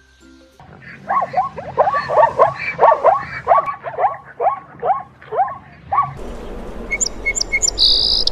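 An animal calling in a quick run of short cries, each falling in pitch, about two or three a second. The calls then give way to a steady background hiss with a few high bird chirps near the end.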